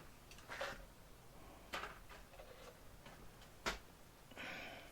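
Faint, scattered clicks and knocks with brief rustling as bits of scrap metal are searched through and handled. The sharpest click comes near the end.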